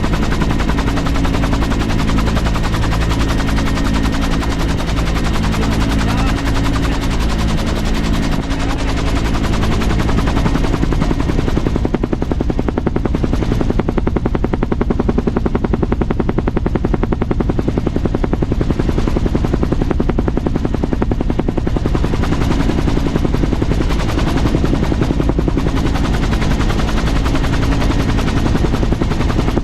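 Helicopter running close by: a rapid, steady beat of the rotor over a steady engine drone, loud throughout, with the lower engine tones fading about 11 seconds in.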